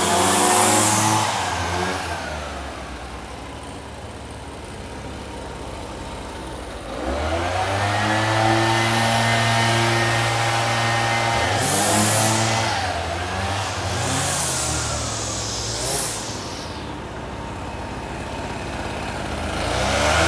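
Small two-stroke engine of a handheld power tool, revving and idling in turns. It drops from high revs to idle about two seconds in, revs up and holds high from about seven seconds, blips and falls back to idle, then revs up again near the end.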